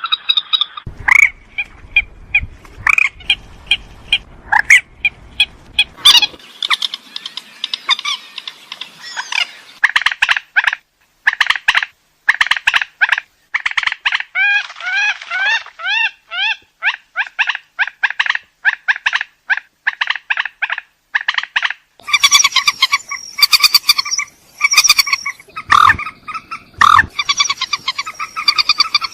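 Purple swamphen calls: fast series of short, harsh clucking and squawking notes, repeated in bursts, whose pattern changes abruptly about ten seconds in and again about two-thirds of the way through.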